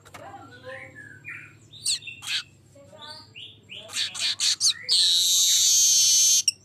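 Male weaver bird (manyar) singing in full song: a run of varied short chirps and quick whistled glides, then about five seconds in a loud harsh buzzing rattle held for about a second and a half.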